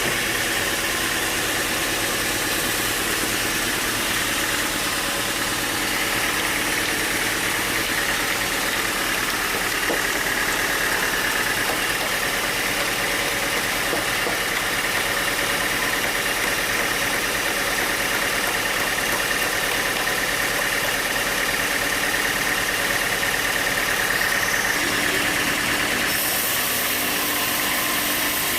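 Sawmill machinery running steadily, with a shift in its tone near the end.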